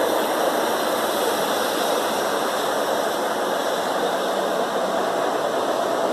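Class 43 HST power car's diesel engine idling at a standstill, a steady even rush with no distinct beat.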